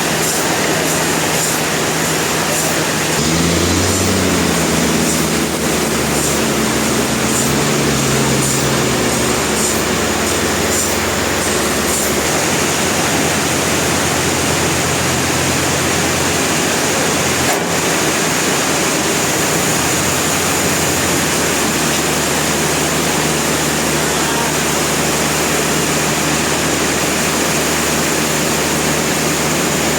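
Industrial sawmill machinery running: a loud, steady mechanical din with a low motor hum that shifts in pitch between about 3 and 10 seconds in, and a single sharp knock a little past halfway.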